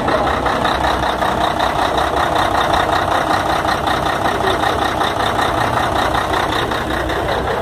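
Scania truck's diesel engine running steadily at a constant, even speed.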